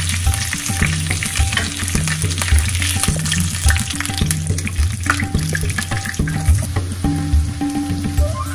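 Marinated chicken drumsticks sizzling in hot oil in a skillet, with the clicks of metal tongs as the pieces are turned and lifted, over background music with a repeating bass line.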